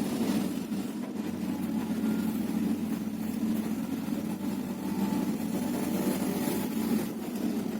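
Diesel engine of a Hyundai 330LC-9S crawler excavator running steadily, a continuous low drone.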